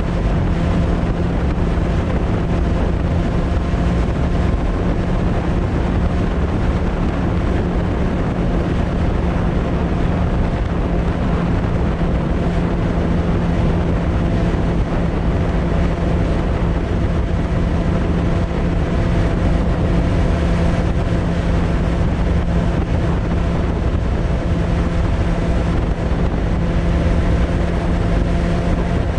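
Suzuki Bandit 600's inline-four engine running through a Hashiru aftermarket exhaust, holding a steady pitch while cruising at constant revs, with wind rushing over the microphone.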